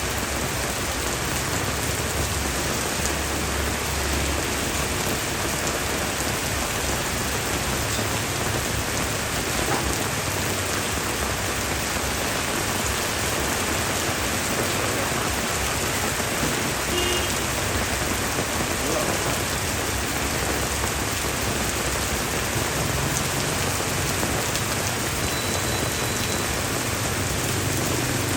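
Steady rain falling on a street, a dense even hiss of drops on hard surfaces.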